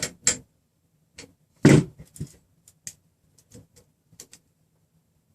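Scattered light clicks and taps of small metal hardware being handled, with one louder knock a little under two seconds in. The sound comes from hand adjustment of a nut on a threaded rod and the measuring calipers being set against the rods.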